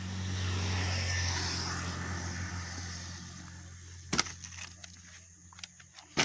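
A motor vehicle going by: a steady low engine hum with road noise that swells in the first second and fades away over the next few seconds. Two sharp knocks follow, about four and six seconds in.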